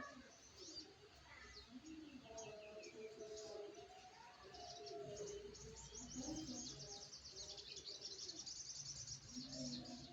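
Small birds chirping faintly, with a fast high trill through the second half.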